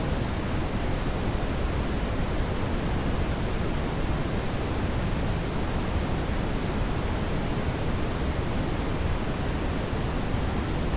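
Steady brown noise: an even, unchanging rush of noise weighted toward the low end, with no other sounds.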